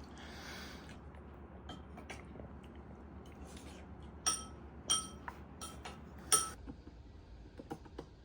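A short rustle, then four light clinks about half a second apart, each ringing briefly at the same pitch: a small hard glass or metal object being knocked.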